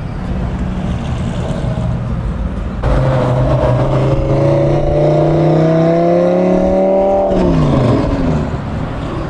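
A car engine revving up, its pitch climbing steadily for about four seconds and then dropping off sharply as the throttle is released, over a low rumble of cruising traffic.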